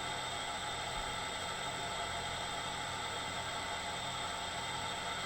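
Steady background whir and hiss with a constant low hum, unchanging throughout.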